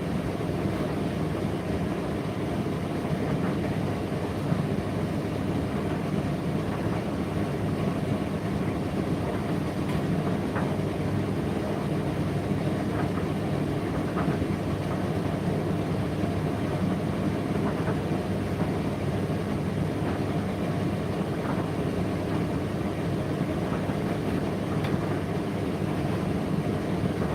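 Indesit IDC8T3 condenser tumble dryer running steadily mid-cycle: an even drum-and-fan noise with a low motor hum, and a few light knocks here and there from the load turning in the drum.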